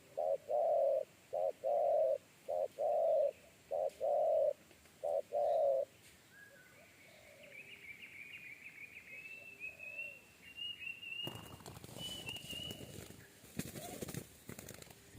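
Spotted dove cooing: a run of about nine loud, deep coo notes over the first six seconds. A smaller bird then twitters thinly and high, and from about eleven seconds in a scrabbling, rustling noise takes over.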